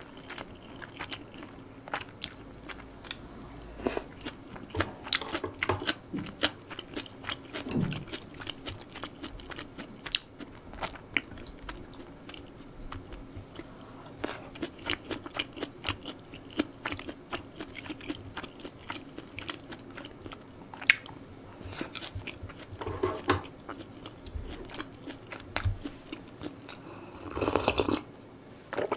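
Close-miked eating: biting and chewing mouthfuls of stir-fried spicy pork and rice, with many small wet clicks and crunches. Shortly before the end comes a longer sipping sound from a bowl held to the mouth.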